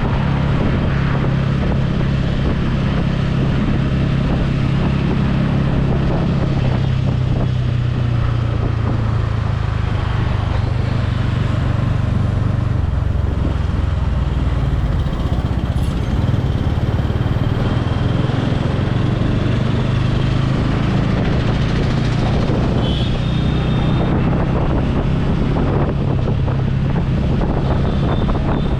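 Motorcycle engine running on the move, with wind rushing over the microphone. The engine note drops lower for a stretch midway and rises again near the end.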